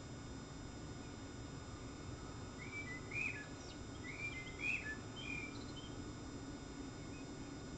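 A bird chirping: two short clusters of quick notes, about three seconds in and again from about four to five and a half seconds, over a steady low hum.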